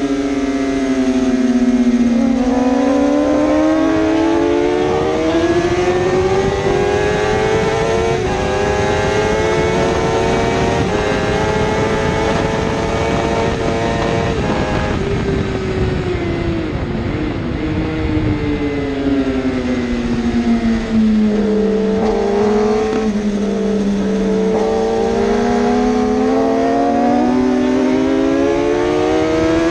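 Superbike racing engine running at high revs without a break, its pitch slowly sinking, climbing for about twelve seconds, dropping again and rising once more near the end, over a rough rushing noise.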